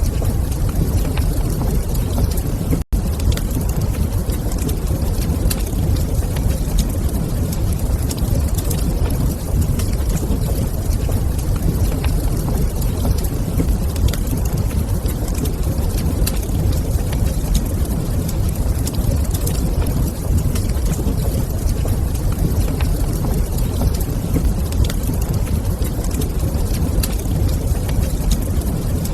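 Fireplace ambience: a steady low rumble with faint, scattered crackles of a wood fire. About three seconds in the sound cuts out for a split second.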